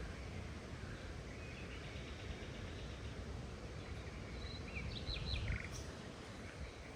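Faint bird chirps, a short cluster of them about five seconds in, over a steady low rumble of outdoor background noise.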